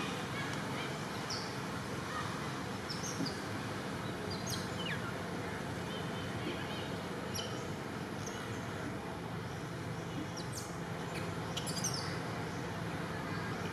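Outdoor ambience: a steady hiss of background noise with short, high bird chirps scattered through it, a few of them sliding down in pitch.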